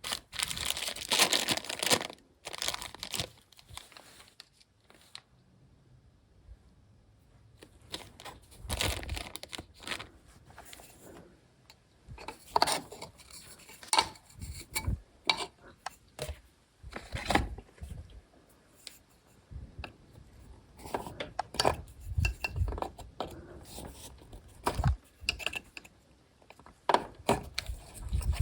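Irregular handling noises: rustling and crinkling with light clicks and clinks of small hard objects, in short scattered bursts.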